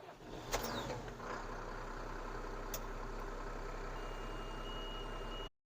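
JCB Fastrac 4220 tractor's 220 hp diesel engine idling steadily, heard from inside the cab just after being started. A thin, high, steady beep comes in near the end, and the sound cuts off abruptly.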